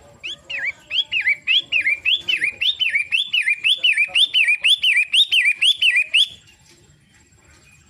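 Long-tailed shrike (cendet) singing a fast, even run of loud whistled notes, about three a second, each sweeping up and down. The run stops about six seconds in.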